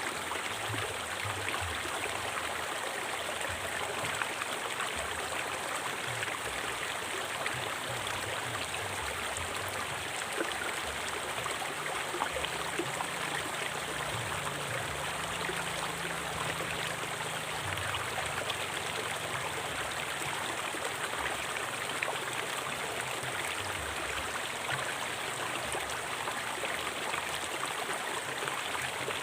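River water flowing in a steady, even rush, dotted with many small splashes.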